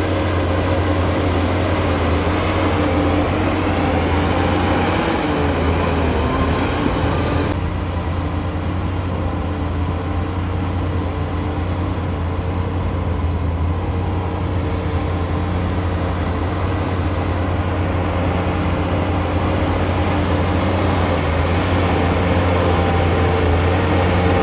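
Heavy earthmoving machine's diesel engine running steadily under load, with a strong low hum. It eases off about seven seconds in and builds again near the end.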